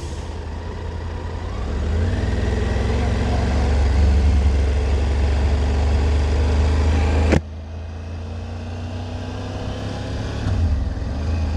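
Triumph Tiger 900 GT Pro's three-cylinder engine pulling away and accelerating, its pitch rising about two seconds in. The sound drops off suddenly about seven seconds in and builds again near the end.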